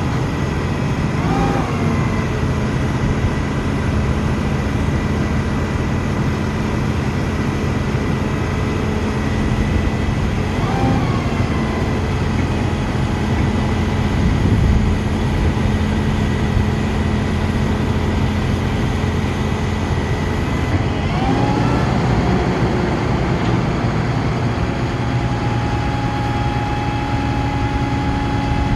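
Ford F-750 bucket truck's engine running steadily, driving the aerial boom's hydraulics, with short swells and dips in pitch about 1.5, 10.5 and 21.5 seconds in. After the last one the tone settles at a different pitch.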